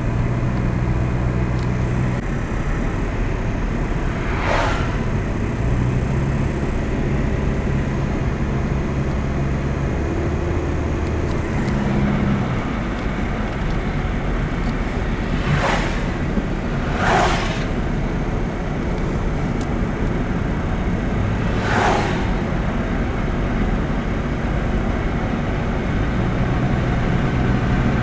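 Steady road and engine noise of a moving car, with a low hum underneath and four brief whooshes, about 5, 16, 17 and 22 seconds in.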